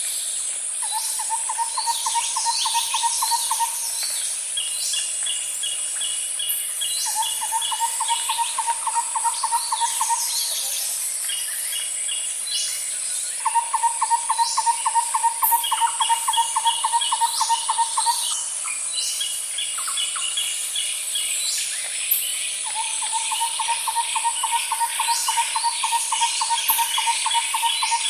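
Tropical rainforest chorus of birds and insects: a low, rapid pulsing trill comes in runs of three to five seconds, four times. Around it are shorter series of high chirps, quick falling whistles, and a steady high insect buzz.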